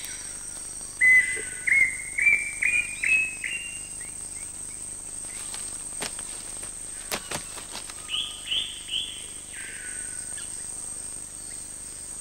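A bird singing in the rainforest: a run of about six clear whistled notes, each a little higher than the last, then a second, shorter phrase of three or four higher notes about eight seconds in.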